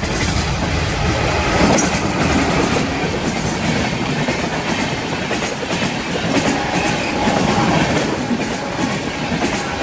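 Express passenger train running past close by at speed, its coaches' wheels clattering over the rail joints in a steady rush of rolling noise.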